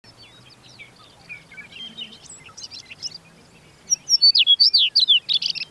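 Songbirds chirping and singing, with many short scattered calls at first; about four seconds in, one bird's loud song of quick down-sweeping notes and trills begins.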